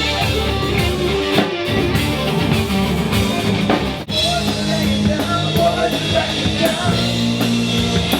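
Live rock band playing an instrumental passage: drum kit, electric guitars and electric bass, with no singing. The music drops out for an instant about four seconds in, then carries on.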